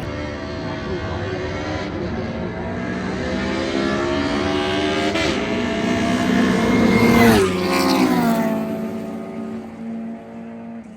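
Drag-racing car engine under hard acceleration, its pitch climbing for several seconds to the loudest point about seven seconds in, then dropping suddenly and falling away as the sound fades.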